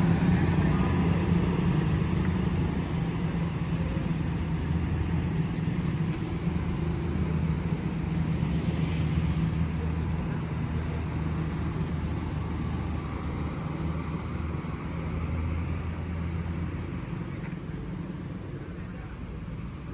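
Motor vehicle engines running steadily with road noise, a low hum that slowly fades.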